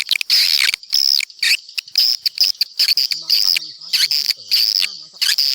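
Swiftlets twittering: a dense run of short, high chirps, several a second, one after another.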